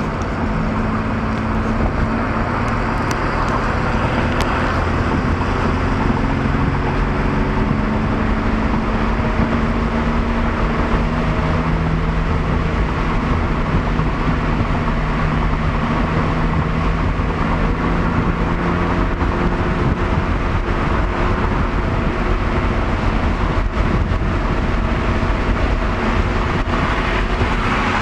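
1966 Corvair's rear air-cooled flat-six running on the road, heard inside the cabin with steady road noise. The engine has just had a new condenser and points and a balanced, synchronized carburetor, and its note rises slowly as the car gathers speed. Near the end there is a louder rush of noise.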